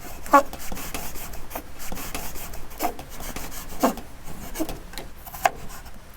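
Rubbing and scraping on a wooden board, with a few sharp knocks, typical of a knife cutting food on a wooden cutting board.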